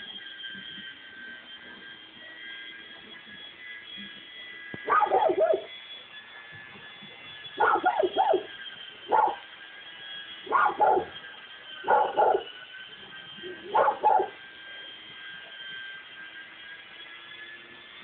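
Dog barking in short runs of one to three barks, starting about five seconds in and stopping about fourteen seconds in, over a faint steady hum.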